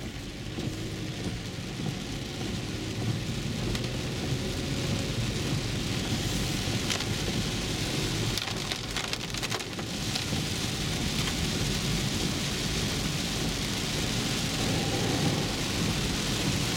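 Heavy rain pelting the roof and windshield of a moving car, heard from inside the cabin, over a steady rumble of tyres on the wet road. The rain grows louder over the first few seconds.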